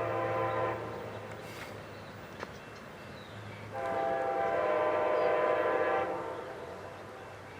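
Amtrak Pacific Surfliner passenger train sounding its horn as it arrives: one blast fading out about a second in, then a longer, louder blast of about two and a half seconds, over the low rumble of the train.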